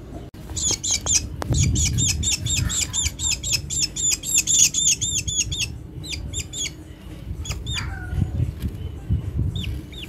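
A hungry young black bird giving rapid, repeated shrill begging calls, about four or five a second, that slow to a few scattered calls after about six seconds, with low rumbling handling noise underneath.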